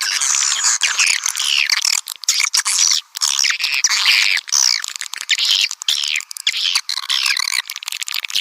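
Swiftlet lure call: a dense, continuous chorus of many high-pitched swiftlet chirps and twitters overlapping one another. It is the calling sound played to draw swiftlets into nesting houses.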